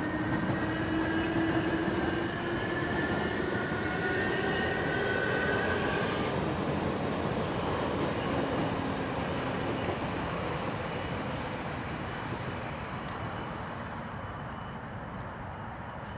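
A large vehicle going by: a loud, steady rumble with whining tones that slowly drop in pitch, fading away over the last few seconds.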